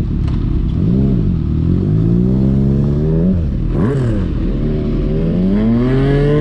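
Motorcycle engine accelerating hard, its pitch climbing steadily and then dropping sharply at each upshift, twice, over steady rushing wind noise.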